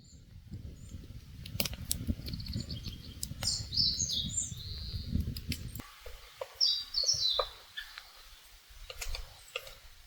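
Small birds chirping in short high calls, in two spells, with scattered sharp clicks and a low rumble that stops about six seconds in.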